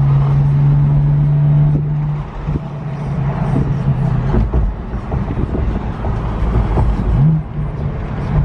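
Car driving at highway speed, heard from inside the cabin: a steady low engine drone over tyre and road noise, the drone easing about two seconds in, with a short rising tone near the end.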